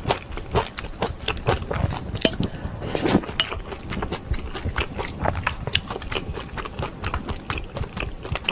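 Close-miked chewing of instant ramen noodles and dumplings: a continuous run of mouth clicks and smacks, several a second.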